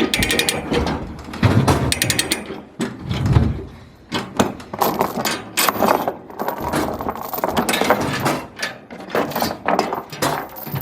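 Hand-tool work on metal: a ratchet wrench clicking in short quick runs, with metal knocks and clanks, during the removal or fitting of a truck battery. Two heavier thuds come in the first few seconds.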